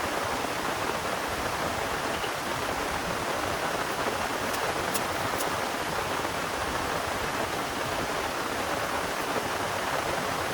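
Heavy rain falling steadily, with a few sharp drop ticks about halfway through.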